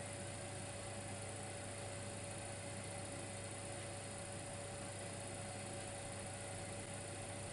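Dimplex electric fireplace heater running with a steady hum, a single even tone through it, and a soft hiss.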